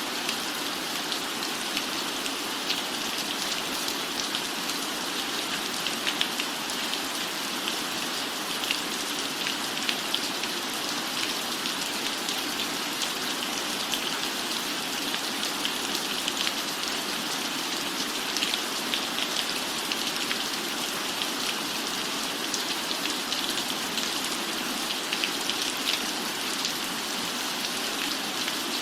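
Steady rain falling on a roof, a constant hiss with many small drop ticks scattered through it.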